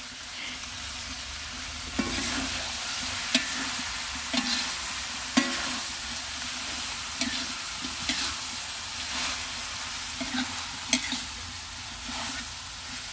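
Food sizzling in hot oil in a pan as it is stir-fried, with a steady hiss and repeated sharp knocks and scrapes of a utensil against the pan.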